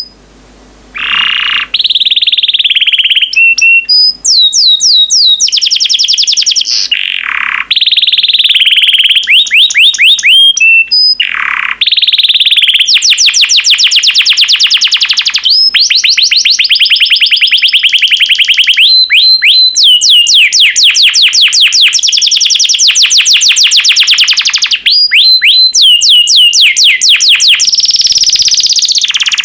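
Yellow canary singing: long, high-pitched runs of rapidly repeated notes and rolling trills, broken by short pauses.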